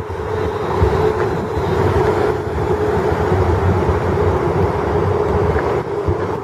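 London Midland Class 350 electric multiple unit running at the platform: a steady hum over a low rumble.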